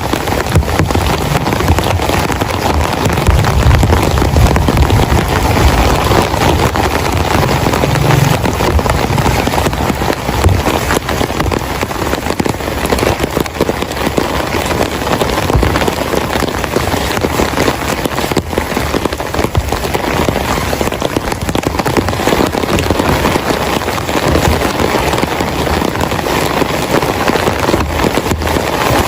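Heavy rain falling, a dense, steady patter of drops hitting a surface. There is a low rumble underneath during the first several seconds.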